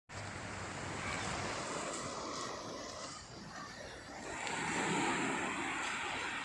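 Sea surf washing onto the shore, a steady rush that swells louder a little past halfway as a wave comes in.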